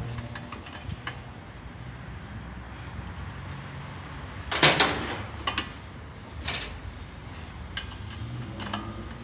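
Metal tools and brake parts clinking as a brake caliper is taken apart, with one louder clatter about four and a half seconds in and a few lighter clicks after it, over a steady low hum.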